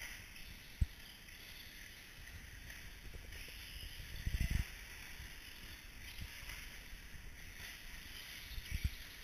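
Radio-controlled short-course trucks running on a track, their motors and tyres a steady high whirring hiss, with a few dull low thumps about a second in, a short cluster midway and a pair near the end.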